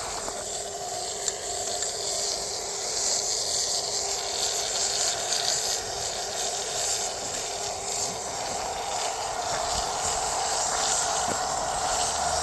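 Fire pit burning with a steady hiss, a few faint pops, while an old electric compressor motor with worn, rough bearings keeps running in the flames, a steady hum under the hiss.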